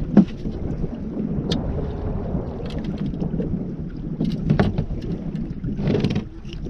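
Handling noises on a small fishing boat: a sharp knock just after the start, the loudest sound, then scattered clicks and a short rustle near the end, over a steady low rumble.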